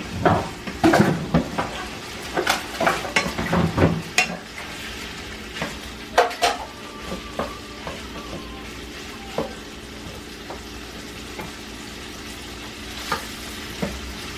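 Chunks of chicken frying in hot oil and butter in a pan, a steady sizzle. A utensil knocks and scrapes against the pan many times in the first four seconds and again around six seconds in as the pieces are placed and turned, with a few lighter clicks later.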